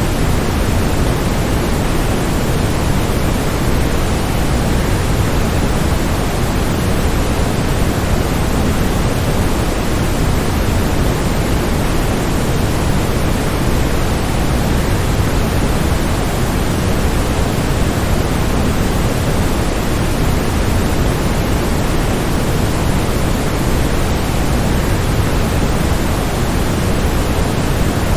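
Steady rushing of a waterfall, an even noise heaviest in the low end that does not change.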